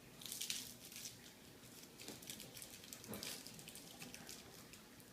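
Faint crinkling of a candy wrapper being torn open by hand, in short rustling bursts about half a second in and again about three seconds in, with small crackles between.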